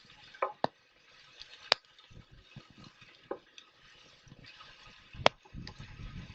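Wood campfire crackling: a soft hiss broken by sharp pops from the burning wood, the loudest about five seconds in, followed by a brief low rumble.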